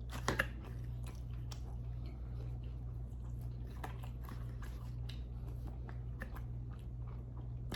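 Close-miked chewing of chicken wings: scattered wet mouth clicks and smacks, with one sharper click shortly after the start. A steady low hum runs underneath.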